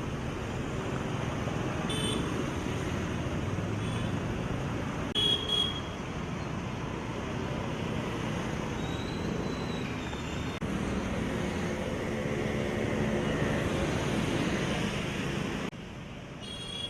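Road traffic in rain: a steady wash of vehicle noise, with short high tones about 2 and 5 seconds in, the second the loudest. The sound changes abruptly twice in the second half.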